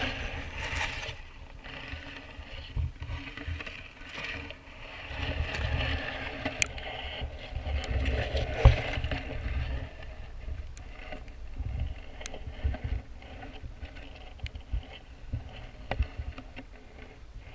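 Water sloshing and knocks against a waterproof camera housing held in a pond, muffled, with an uneven low rumble and scattered sharp clicks.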